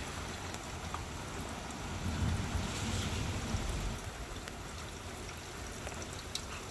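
Steady rain falling, with scattered drops ticking close by. A louder low rush swells for a couple of seconds about two seconds in.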